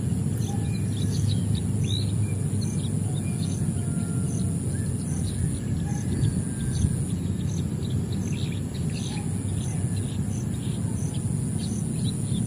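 Small birds chirping with many short, quick calls, over a steady high-pitched whine that pulses about twice a second. A steady low rumble runs underneath.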